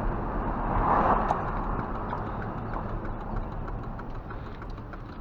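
Truck driving, heard from inside the cab: a steady engine and road rumble that slowly fades, with light, irregular ticking and rattling over it.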